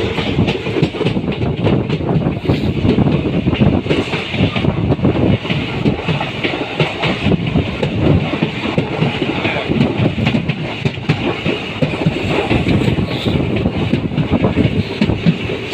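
Train running along the line, heard from the open window of its coach: a steady rumble and rush with the wheels clattering over the rails.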